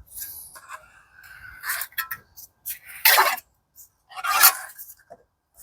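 A pointed marking tool scraping over a sheet in a series of irregular scratching strokes, marking out a gearbox washer. The two loudest strokes come about three and four and a half seconds in.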